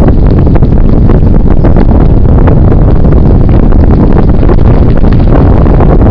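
Heavy wind buffeting the microphone of a camera on a moving bicycle, loud and steady, with many small clicks and rattles scattered through it.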